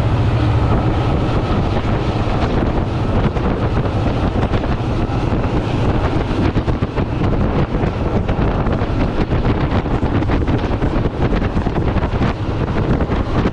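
Passenger train carriage running along the track, heard at an open window: a steady rumble with wind on the microphone, and a fast run of rattles and clacks from about three seconds in.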